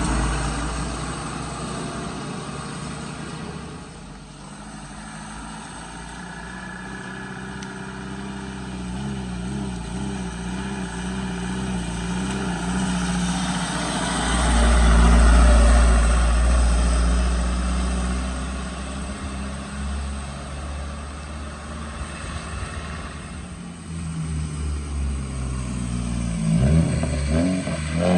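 Vehicle engines running as they pass through a bend, swelling to a loud low rumble about halfway through, then revving up and down near the end.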